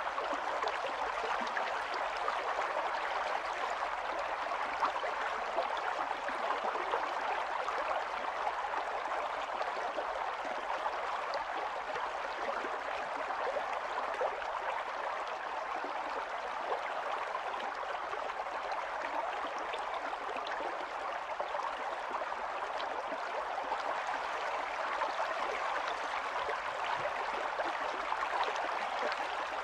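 A small stream of water running steadily over stones, with a continuous rushing and light splashing.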